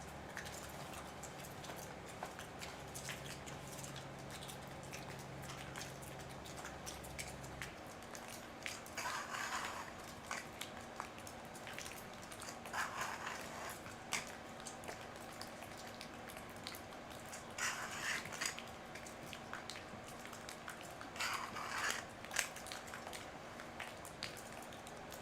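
Hands-on cleaning of a chainsaw's guide bar and chain: small clicks and rattles of parts being handled, with four short hissing bursts.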